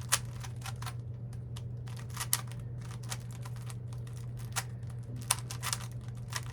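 Plastic Rubik's cube being turned by hand: quick, irregular clicking and clacking as the layers snap round, over a steady low hum.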